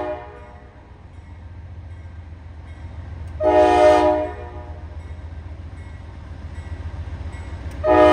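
Locomotive multi-chime air horn over the steady low rumble of a passing train. A blast ends right at the start, a short blast comes about three and a half seconds in, and a long blast begins near the end, a pattern typical of a grade-crossing warning.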